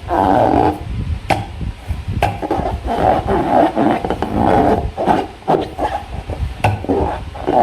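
Hands working a slime-filled rubber balloon, giving a run of uneven rubbing and squeaking noises with a few sharp clicks.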